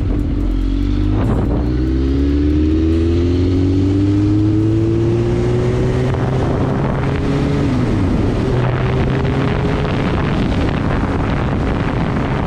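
Sport motorcycle engine accelerating, its pitch rising steadily for several seconds. Just past the halfway point the pitch drops briefly, as at a gear change, and the engine then holds a steadier note under a rush of wind.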